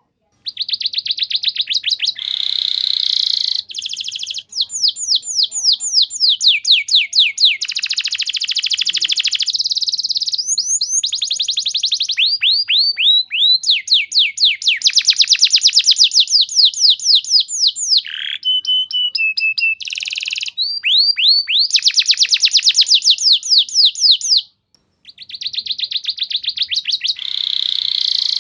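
Domestic canary singing a long, almost unbroken song of fast trills: rapid runs of repeated falling notes that change speed and pitch from phrase to phrase, mixed with rattling rolls. The song breaks off briefly about three-quarters of the way through.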